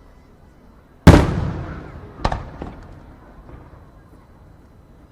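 Aerial firework shells bursting: one loud bang about a second in that dies away over the next second or so, then a smaller bang about a second later and a faint pop just after it.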